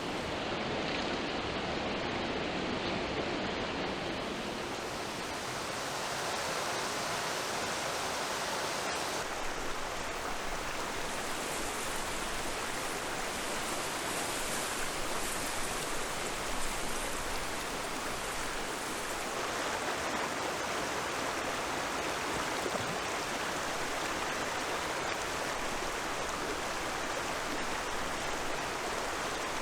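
Rushing river water, a steady wash of sound with a slight change in its character about nine seconds in.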